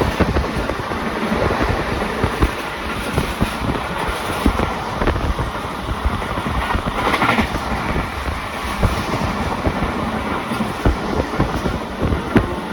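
Pakistan Express passenger train running at speed, its carriage wheels clattering over the rail joints in irregular knocks, with a short hiss a little past halfway.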